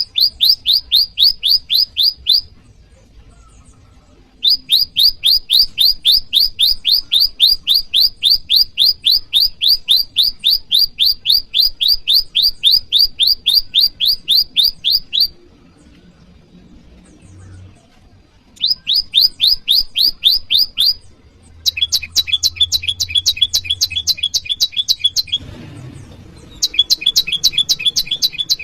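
Prenjak lumut singing its calling song to challenge a rival: long bouts of fast, evenly repeated high chirps, broken by short pauses. The last two bouts have a denser, more layered pattern.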